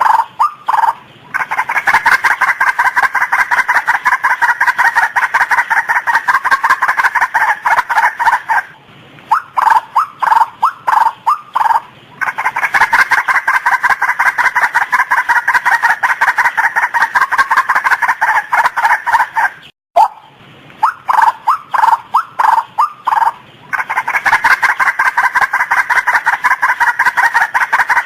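Female white-breasted waterhen calling loudly. A few separate croaking notes lead into long runs of fast, evenly repeated notes, and the pattern comes round about three times, with a brief break just before 20 seconds in.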